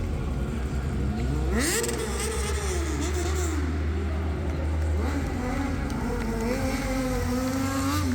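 Stunt motorcycle engine revving: the pitch climbs about a second and a half in, rises and falls, drops away, then comes back about five seconds in and is held high, over a steady low hum.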